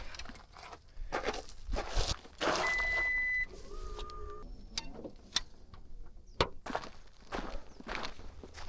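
Irregular footsteps, rustling and handling clatter. About three seconds in, a short, steady, high electronic beep sounds, followed at once by a lower two-tone electronic chirp lasting about a second.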